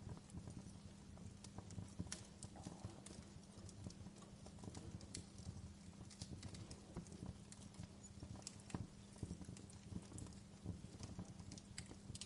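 Wood fire crackling in a fireplace: irregular small snaps and pops over a low, steady hum.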